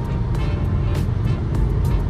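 Steady car road and engine rumble heard from inside the cabin while driving, with background music playing.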